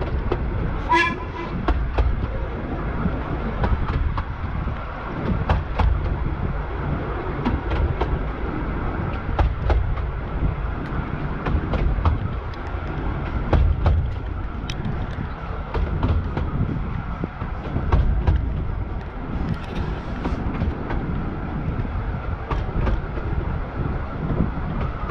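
A 15-inch-gauge Bure Valley Railway train running along the track: a steady rumble of wheels on rail with irregular clicks and knocks over the rail joints. There is a short toot from the locomotive about a second in.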